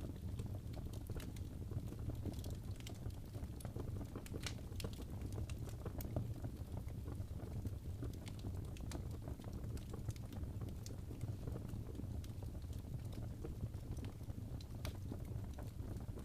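Wood fire in a fireplace crackling, with irregular sharp pops and snaps over a steady low rush of burning.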